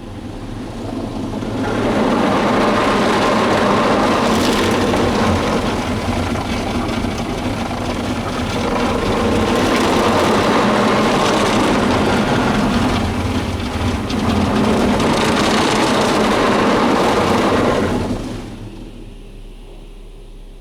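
Mark VII soft-touch automatic car wash machinery working over the car: a loud, steady rush of washing noise. It builds up about two seconds in, dips twice, and fades out near the end.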